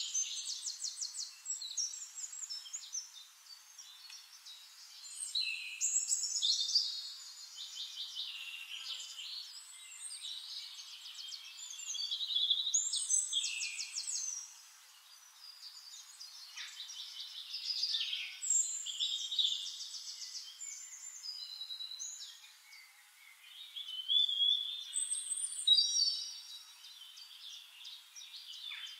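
Birds singing: rapid high trills and chirps that swell and fade every few seconds, thin and with no low sound under them.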